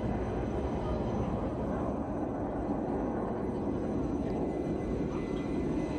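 Jet aircraft engine running nearby, a steady rushing noise with a faint high whine.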